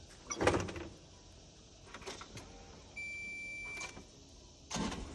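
Knocks and clunks, the loudest about half a second in, then a steady high electronic beep lasting under a second, about three seconds in. The beep is the Cat 304 mini excavator's key-on warning beeper, sounding as the machine is switched on just before it is cranked.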